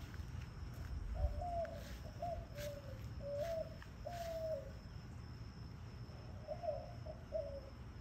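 A bird cooing: a run of about five low, dove-like coos, then three more near the end.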